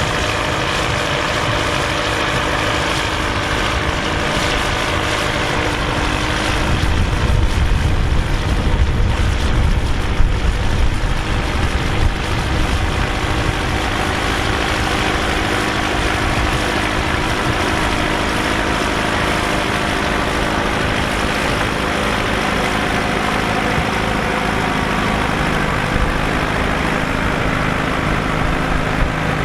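Massey Ferguson 3070 tractor's diesel engine running steadily, growing louder and heavier for a few seconds about a quarter of the way in, with a few knocks, before settling back.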